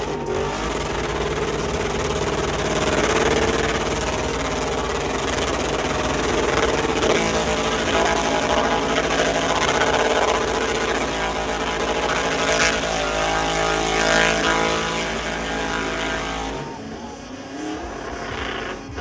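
Truck engine revving hard and held at high revs in a burnout, loud and sustained, its pitch climbing again toward the end. The deep rumble drops off sharply near the end.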